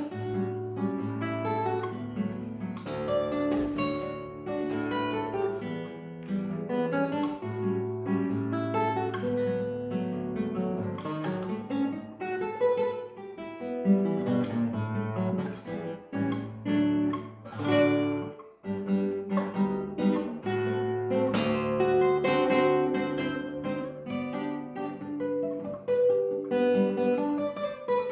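Solo acoustic guitar playing a waltz: plucked melody notes over held bass notes, with a brief pause about eighteen seconds in.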